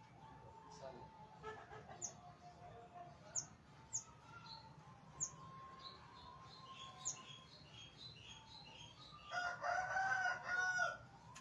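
A rooster crows once near the end, a single call of about a second and a half. Before it, small birds give short, sharp high chirps every second or so.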